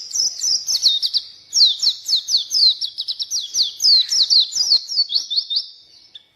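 White-eye (pleci) singing a fast, unbroken song of high, downward-sweeping whistled notes, about five a second, stopping shortly before the end.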